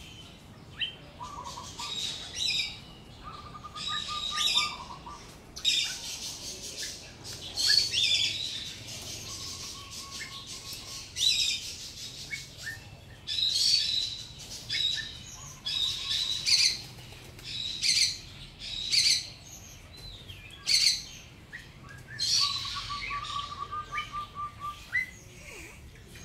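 Small birds chirping in short, loud bursts every second or two, with a few lower, rapid trills lasting about a second each.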